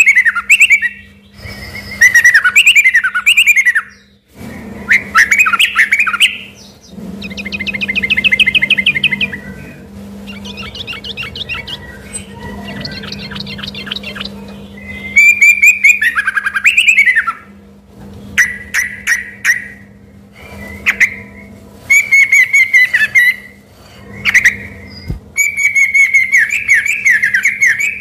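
Yellow-vented bulbul (trucukan) singing loudly in repeated bubbly phrases, with a stretch of softer rapid trills in the middle. It is a rich, varied song taken at first for a white-rumped shama's. A steady low hum sits underneath.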